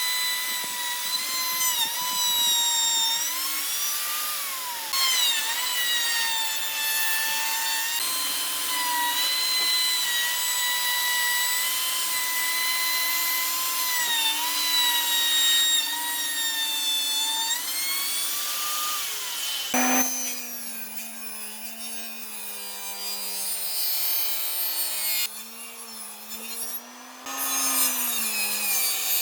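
An electric power tool working hardwood, its motor whining high with the pitch sagging and recovering as it bears into the wood. About two-thirds of the way through it changes abruptly to a lower-pitched motor tone that wavers the same way.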